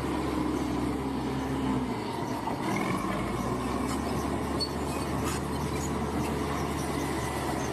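Bulldozer's diesel engine running steadily under load, with the metallic clatter of its steel tracks.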